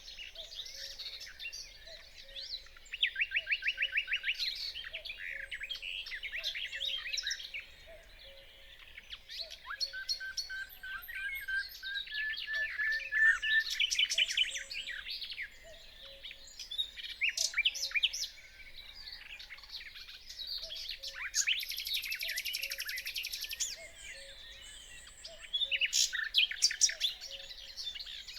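Nightingale singing: varied phrases of fast trills, clear whistled notes and buzzy rattles, separated by short pauses, including a run of whistles rising in pitch.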